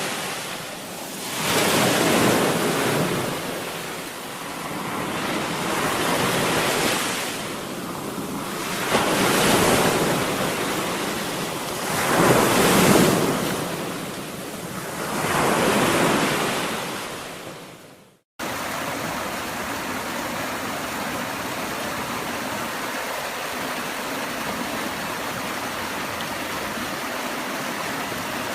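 Ocean waves washing in, the surf swelling and falling away every three to four seconds. About two thirds of the way through it cuts off suddenly to a steady, even rush of running water.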